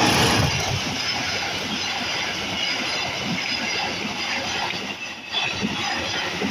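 Passenger train hauled by a CC 201 diesel-electric locomotive passing close by, loudest in the first moment as the locomotive goes past, then the coaches' wheels rumbling and clacking steadily over the rails, with a brief dip about five seconds in.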